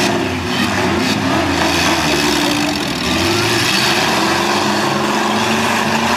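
Several demolition derby cars' engines running and revving at once, their pitches wandering up and down over each other, with a brief knock about a second in.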